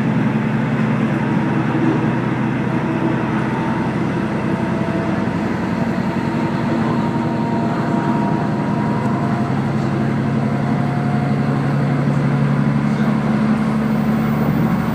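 KiHa 48 diesel railcar running along the line, heard from on board: a steady engine drone with rumbling wheel-on-rail noise and faint steady whining tones.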